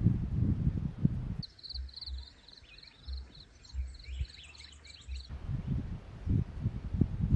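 Wind buffeting the microphone. Then, about a second and a half in, small birds chirping in quick repeated high notes for about four seconds before the wind rumble returns.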